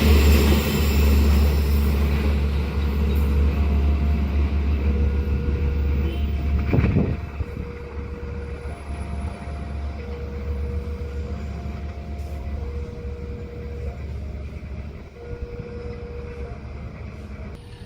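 Train passing a level crossing with a heavy low rumble that dies away after about seven seconds. A level-crossing alarm sounds throughout a slow two-tone signal, its high and low notes alternating about every second.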